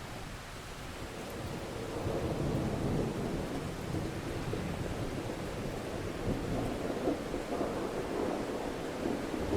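Steady rain with a long low roll of thunder that builds over the first two or three seconds and keeps rumbling.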